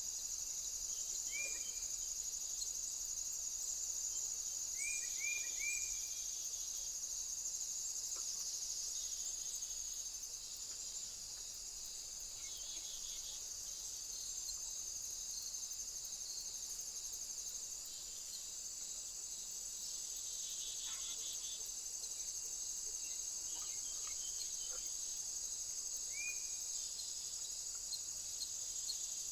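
Steady high-pitched chirring of an insect chorus. Over it come a few short falling chirps of a small bird: one about a second and a half in, three in quick succession about five seconds in, and another near the end.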